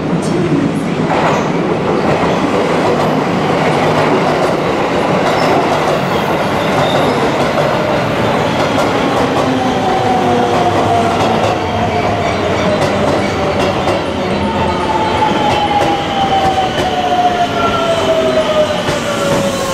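JR West 281 series Haruka limited express electric train rolling slowly past, with steady wheel and running noise and clickety-clack over the rail joints. In the second half a whine slowly falls in pitch as the cars go by.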